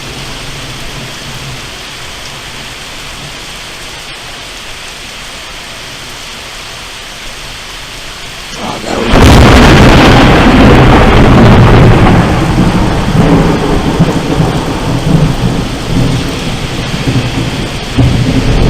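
Steady rain hissing, then about nine seconds in a very close thunderclap cracks suddenly and rolls on in long, loud rumbling that swells again near the end.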